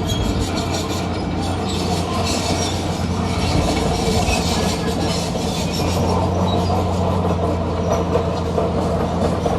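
Crawler bulldozer working, its diesel engine running steadily under the squeal and clank of its steel tracks.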